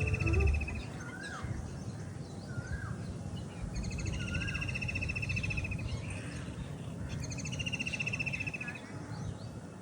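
Several birds calling in a park. A long, rapid trilled call comes in three bouts of about two seconds each, with short up-and-down chirps about once a second in between. All of it sits over steady outdoor background noise, with a low rumble in the first second.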